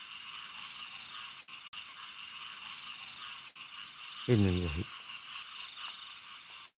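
Crickets and other night insects chirping steadily in a high-pitched chorus, with a run of quick chirps at about four a second in the second half.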